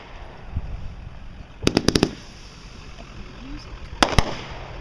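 Fireworks going off: a quick run of four or five sharp bangs about two seconds in, then two more near the end.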